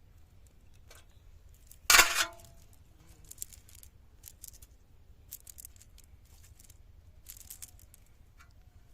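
A single loud, sharp knock about two seconds in, with a brief ringing tone as it dies away, followed by scattered light clicks and rustles.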